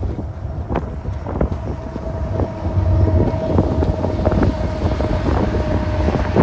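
BNSF double-stack container train passing, its locomotives giving a heavy low rumble with scattered knocks and a steady whine that holds for several seconds. Strong wind buffets the microphone.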